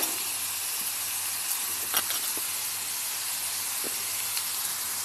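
Onion-tomato masala sizzling steadily in hot oil in a frying pan, with a few short faint clicks.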